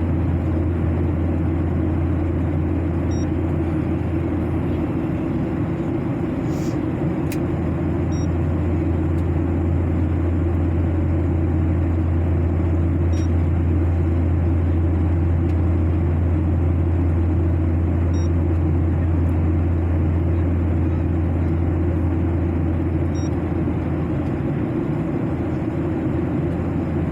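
Steady airliner cabin noise: a constant low drone of engines and airflow. Faint short high ticks come about every five seconds.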